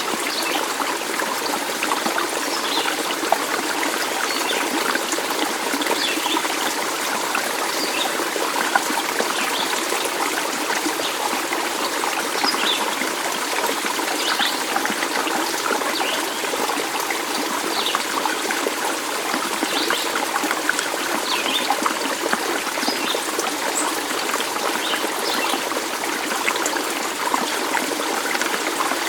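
Running water trickling and babbling steadily, as of a small stream, with brief high plinks scattered through.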